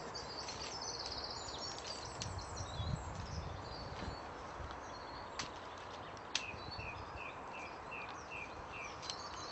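Woodland birds singing, with short high chirps early on and, near the end, one bird repeating a short note about three times a second. Two sharp clicks sound in the middle.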